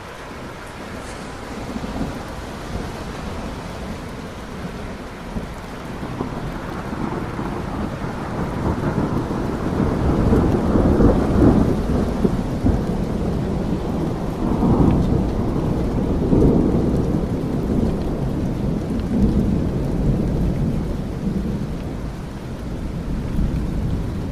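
Steady rain with a long, low roll of thunder that builds about a quarter of the way in, is loudest around the middle and slowly dies away.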